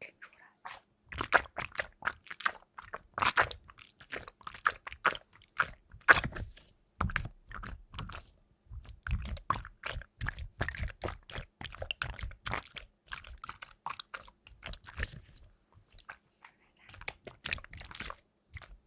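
Close-up crunching and chewing: a rapid, irregular run of sharp crisp crunches with heavier, duller bites in the middle and a short pause near the end.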